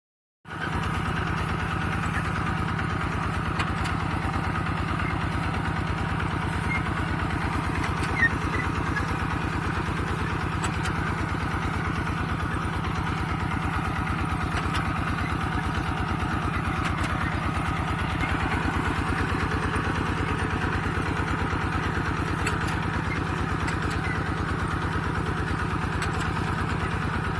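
Kubota RT120 Plus walking tractor's single-cylinder diesel engine running steadily with a rapid, even chug while plowing.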